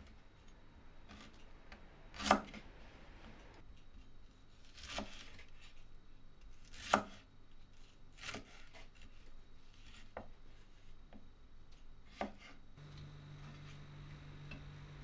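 A blade cutting in slow, separate strokes, six in all, about one every two seconds, the second and fourth loudest. Near the end a steady low hum comes in.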